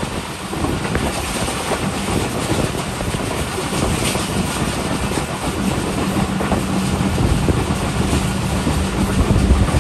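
Train running on the rails: a dense rumble of wheel and track noise with scattered clicks, joined about six seconds in by a steady low hum.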